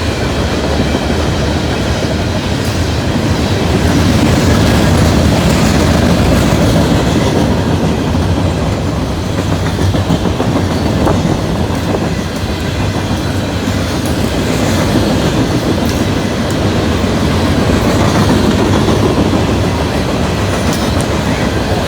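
Loaded coal train passing at speed close by: a steady, loud rumble and clatter of the cars' wheels over the rails, with scattered sharp ticks over it.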